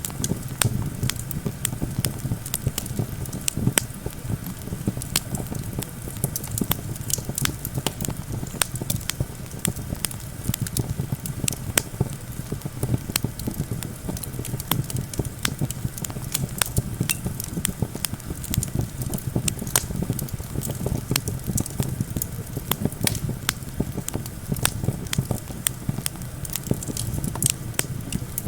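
Campfire crackling, with many irregular sharp pops and snaps throughout. Underneath runs a steady low rumble of wind.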